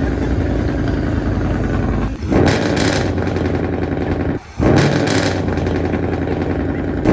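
A motor vehicle's engine running steadily, with two brief sudden drops in sound, about two seconds in and again near the middle.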